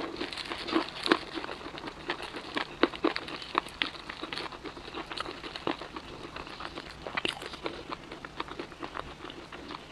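Close-miked eating of crispy fried chicken: irregular crunching and crackling of the fried coating being bitten and chewed.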